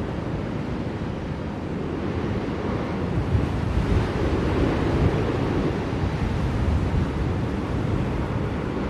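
Blizzard wind blowing steadily, swelling in stronger gusts from about three seconds in and easing again toward the end.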